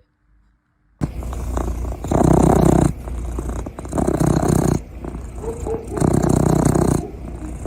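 A cat purring loudly, close to the microphone, in repeated cycles that swell and ease about every two seconds. It begins about a second in.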